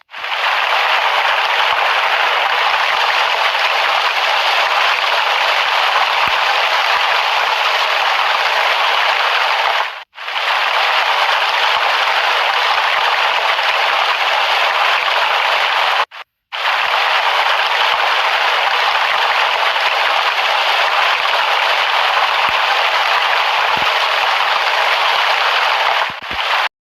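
Rain sound effect from a phone camera app's rain filter: a steady hiss of falling rain. It cuts out briefly about ten seconds in and again around sixteen seconds.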